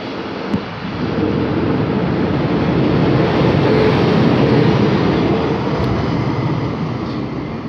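A DB Class 111 electric locomotive and its double-deck coaches rolling close past as the train pulls out. The wheels rumble loudly on the rail under a steady hum, building to their loudest about four seconds in. There is a sharp click about half a second in.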